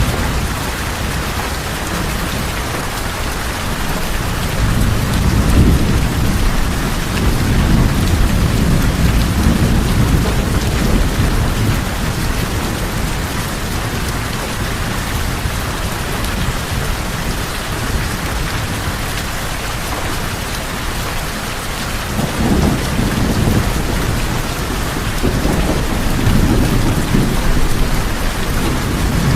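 Steady heavy rain drumming on tin roofs, with distant thunder rolling low several times, a long swell early on and two more near the end.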